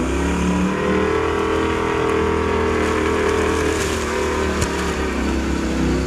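Jeep CJ7's 350 Chevy V8 with tuned-port fuel injection revving up over the first second, then held at high revs under load.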